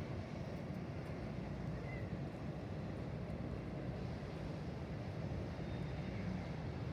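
Steady low drone of an inland cargo ship's diesel engine as it moves along the river.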